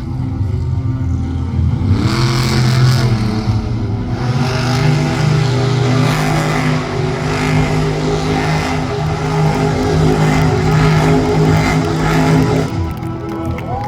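Monster truck engine revving hard. It swells about two seconds in and drops back near the end.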